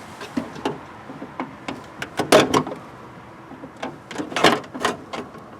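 Scattered clicks and knocks of plastic and metal from hands working inside a car door, prying at the plastic clip that holds the door latch rod, with a cluster of sharper clicks about two seconds in and another about four and a half seconds in.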